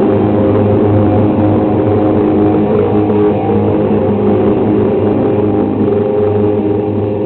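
Live rock band's electric guitars holding loud, steady ringing notes with a low droning bottom. The sound begins to fade near the end.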